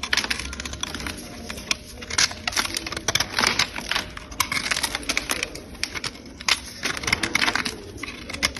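A lump of dry light yellow clay being cleaned, its crust scraped and chipped away. This gives rapid, irregular, crisp clicks and crackles.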